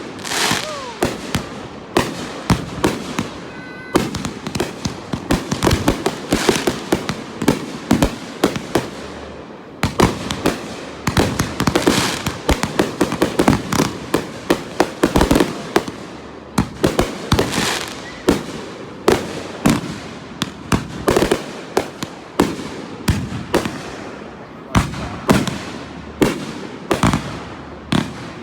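Aerial fireworks going off in rapid succession: a dense run of sharp bangs, several a second, with crackling between them.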